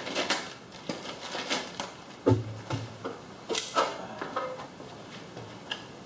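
Replacement parts package being cut open and handled: irregular rustles and small clicks, with a dull knock about two seconds in.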